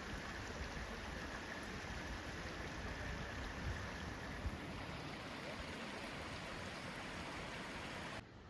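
Steady rush of flowing river water, with wind gusting on the microphone. The sound drops away abruptly near the end.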